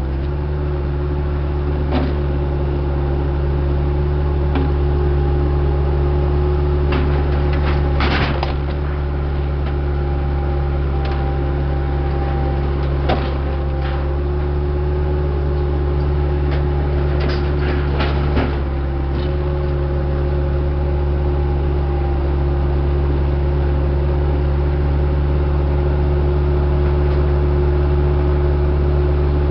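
Diesel engine of heavy earthmoving equipment running steadily at constant speed, with scattered knocks and clanks, a cluster of them around eight seconds and another around seventeen to eighteen seconds.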